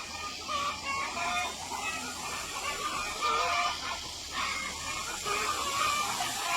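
A flock of chickens clucking: many short calls overlapping one another.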